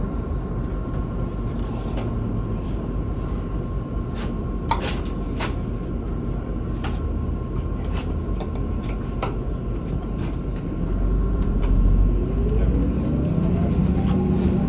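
Inside a MAZ-216 city bus under way: steady low engine and road rumble with clicks and rattles, over a faint steady whine. About 11 seconds in the engine gets louder and its pitch rises as the bus pulls away.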